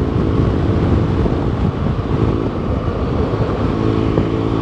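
BMW R1200GS boxer-twin engine with an SC Project aftermarket exhaust running at speed, a steady engine note under heavy wind rush on the microphone that partly masks it mid-way.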